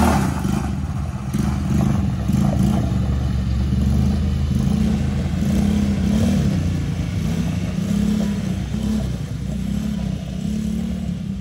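Small off-road vehicle engine running close by, its pitch rising and falling again and again as the throttle is worked.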